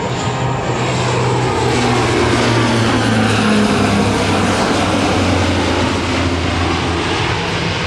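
Lockheed C-130J-30 Super Hercules' four turboprop engines droning as the aircraft makes a slow speed pass, with a steady low propeller hum. It grows louder toward the middle, then eases slightly.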